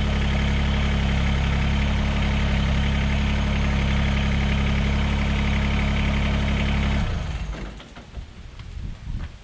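Mahindra eMax 20S HST compact tractor's diesel engine running at a steady idle, then stopping abruptly about seven seconds in; a few faint clicks follow.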